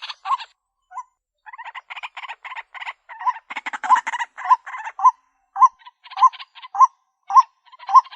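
White-breasted waterhen calling: a rhythmic series of coarse notes repeated a little less than twice a second. There is a short pause about half a second in, and the notes crowd together briefly around the middle.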